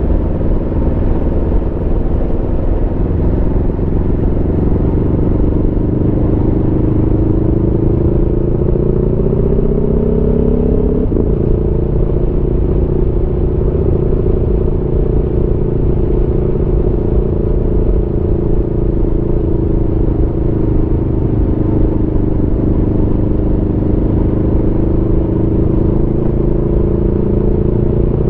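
Aprilia Tuono V4's V4 engine under way: the revs climb for several seconds, drop abruptly about eleven seconds in as it shifts up a gear, then hold fairly steady at cruising speed.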